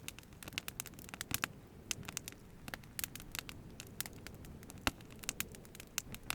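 Wood campfire crackling, with irregular sharp pops over a low hiss.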